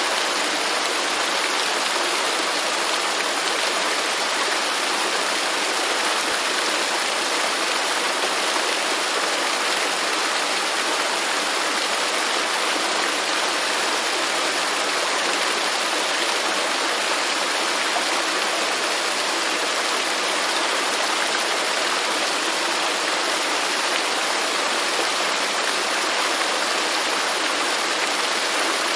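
Waterfall in a rainforest, water pouring and splashing in a steady, unbroken rush with a bright hiss.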